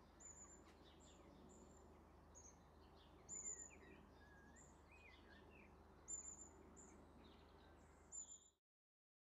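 Faint birdsong: short high chirps every second or so, with a few lower whistled, gliding notes about halfway through. The sound cuts off abruptly near the end.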